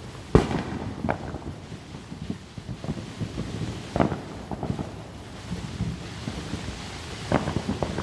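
Neighbourhood fireworks going off: several sharp echoing bangs, the strongest just after the start, at about four seconds and near the end, among smaller scattered pops.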